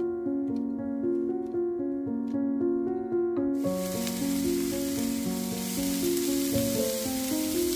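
Background music throughout; about three and a half seconds in, the steady sizzle of diced onion and green pepper frying in a pan starts, as grated carrot is tipped in and stirred.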